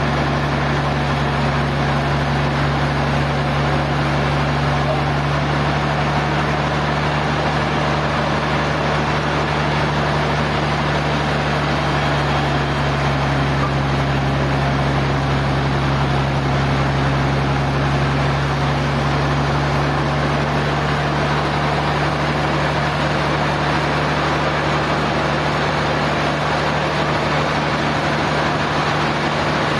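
Sawmill machinery running steadily, a constant motor hum under an even wash of mechanical noise, with no change in pitch or level.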